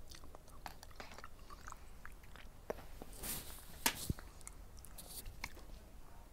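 A person chewing a mouthful of udon noodles, with many small wet mouth clicks and smacks.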